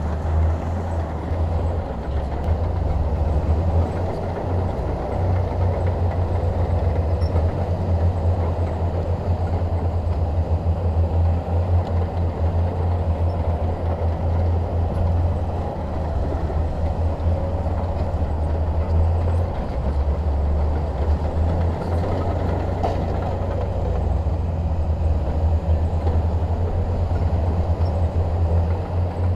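Bulldozer's diesel engine running steadily, a low drone that stays unbroken throughout.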